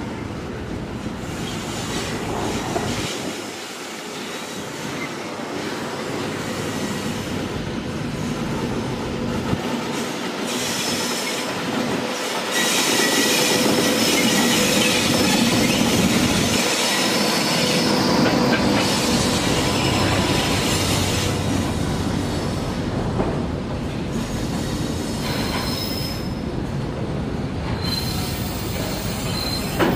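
Loaded container freight train hauled by an Indian Railways WAG-9 electric locomotive running past on a curve: a steady rumble of wheels on rail with clickety-clack, getting louder about twelve seconds in as the locomotive comes close. Thin high-pitched wheel squeal comes and goes over the rumble.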